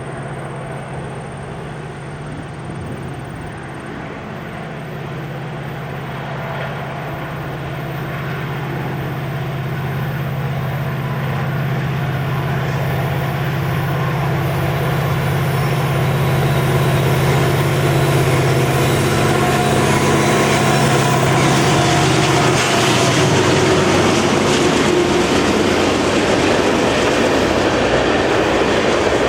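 A train approaching on a main line: the diesel locomotives' engine drone grows steadily louder, and from about three quarters of the way through, the noise of the passing train's wheels on the rails takes over and keeps building.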